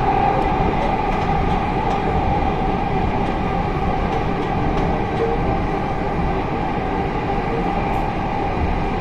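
2011 Hyundai Rotem electric commuter train running steadily, heard from inside the carriage: a continuous rumble with a steady hum in it and a few faint light clicks.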